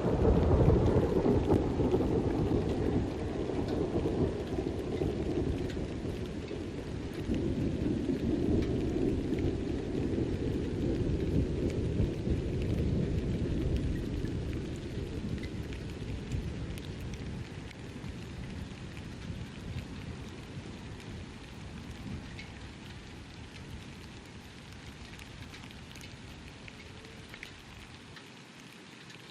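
Thunder from a night thunderstorm: a long, low rumble that is loudest at the start, swells again several seconds in, then slowly fades away over the following twenty seconds.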